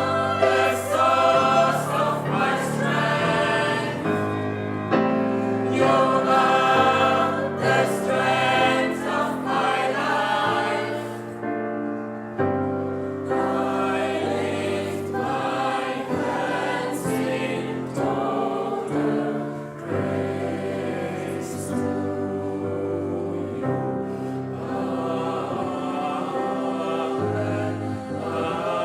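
Gospel choir singing in full harmony, with a brief drop in level near the middle.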